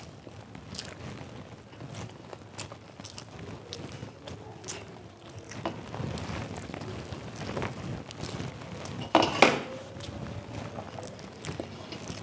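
Close-up chewing and mouth noises of a person eating by hand, with soft clicks and rustles of fingers mixing rice on a metal plate. About nine seconds in there is a louder, brief mouth sound.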